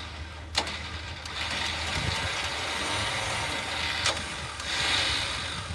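An engine running steadily at idle under a louder hiss that swells and fades, with two sharp clicks, about half a second in and about four seconds in.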